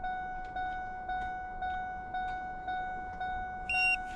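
An electronic chime dinging steadily, about two dings a second, each ding striking and fading quickly. Near the end a brief, higher beep sounds over it.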